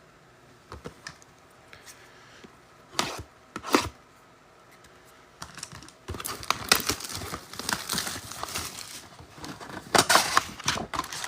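Trading-card pack wrappers being torn open and crinkled by hand. A few light clicks and taps come first, then from about halfway through a continuous crackly rustle of plastic and foil.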